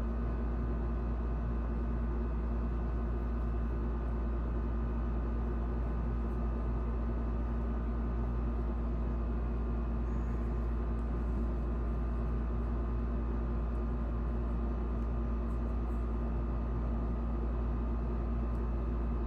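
Steady mechanical hum with a low drone and a few constant tones, unchanging throughout.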